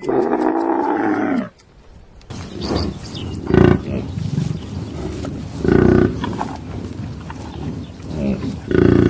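Animal calls: one long pitched call, then a rougher, noisier stretch with three loud call bursts.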